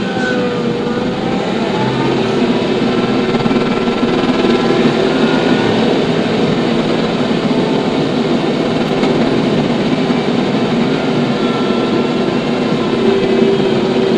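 TYM T574 tractor's diesel engine running steadily, a loud continuous mechanical drone with faint wavering whines over it.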